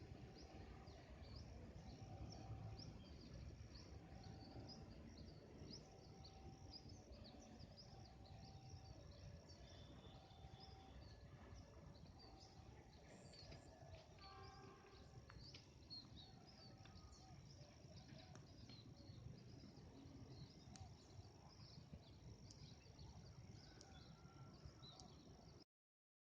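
Faint outdoor ambience of many small birds chirping over a low rumble, with a short call repeating about every second. The sound cuts off abruptly near the end.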